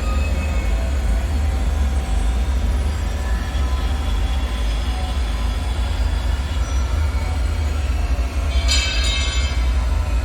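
Eerie bunker ambience: a steady deep rumble under a faint haze, with a brief high metallic screech a little before the end.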